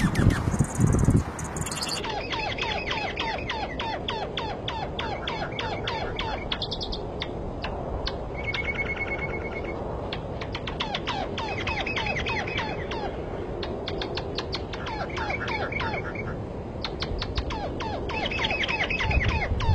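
Birds singing and chirping, several at once: a rapid run of short downward-sliding calls, about four a second, with brief high trills and one held whistle, over a steady noisy background.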